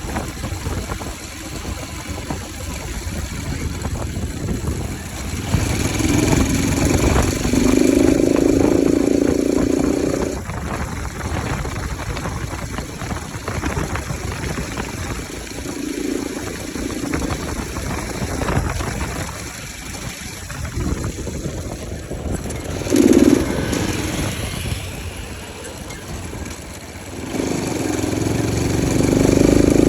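Bajaj Pulsar RS200 motorcycle's single-cylinder engine running with its air filter removed. It idles between repeated throttle blips, with revs held for several seconds around 6 s in, short blips near 16 s and 23 s, and another held rev near the end.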